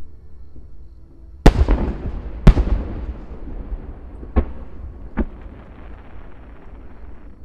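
Aerial fireworks shells bursting: two loud booms about a second apart, then two fainter bangs, with a rumbling echo lingering between them.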